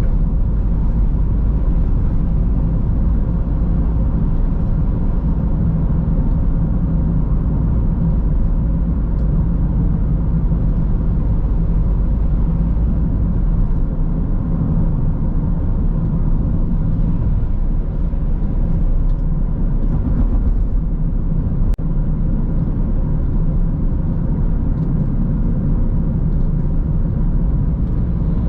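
Car driving on a road: steady low rumble of tyres and engine, with a faint steady hum above it.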